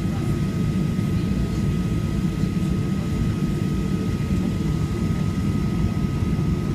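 Steady cabin noise inside a Boeing 737-800 in flight: an even low engine and airflow rumble with a thin steady tone above it.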